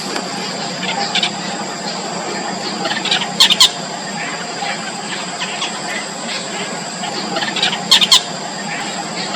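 Yellow bittern nestlings calling at the nest: a run of short, high squeaky calls, with two loud clusters of sharp calls about 3.5 seconds and 8 seconds in, over a steady high-pitched tone.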